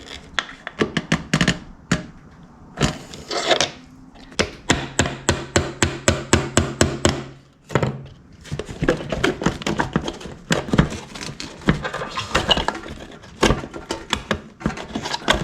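Metal tapping and clinking from hand tools working the cotter pin and bent nail out of a motorcycle seat hinge, with a quick run of even taps, about four a second, in the middle.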